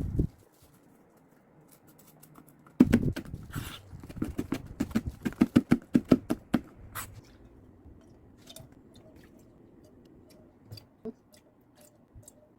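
Dried laver (gim) being handled, with crisp, crackly strokes. They start about three seconds in and run for about four seconds at about three or four a second, then thin out to a few faint clicks.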